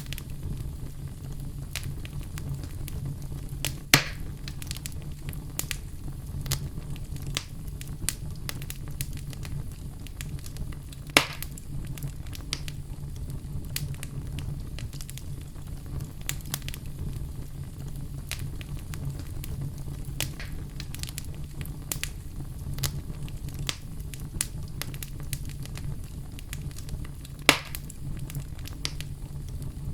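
Oak logs burning in a fireplace: a steady low rumble of flame with frequent small crackles, and three loud pops spread through the stretch.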